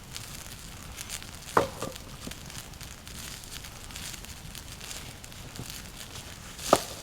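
Two sharp knocks about five seconds apart, with faint crackling and rustling between them.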